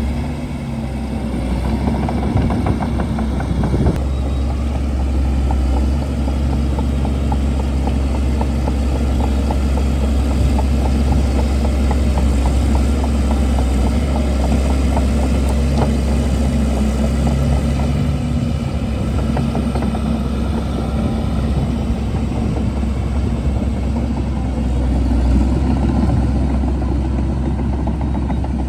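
Shantui DH17C2 bulldozer's diesel engine running steadily and loud, with a deep, even drone.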